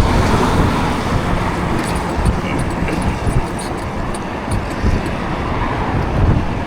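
Steady road-traffic noise and low wind rumble on the microphone while riding a bicycle in city traffic, with scattered faint light ticks.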